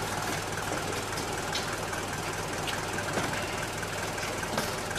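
Car engine idling with a steady low hum under an even noise, with a few faint clicks.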